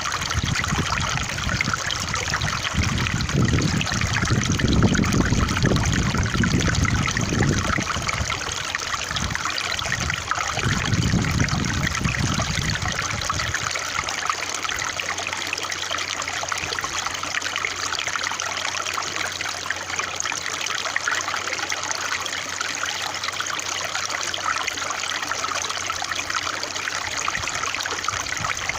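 Running water trickling and splashing steadily, as from a small stream. A low rumble comes and goes under it through the first half and stops about halfway through.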